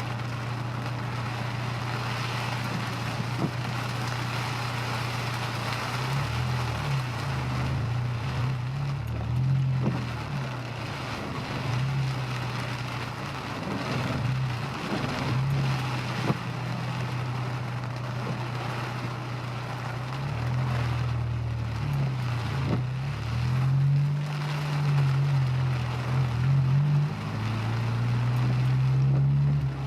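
Honda S2000 engine pulling through traffic. Its note holds steady for the first few seconds, then rises and falls repeatedly with the changing speed. Underneath runs a steady hiss of heavy rain and wet road.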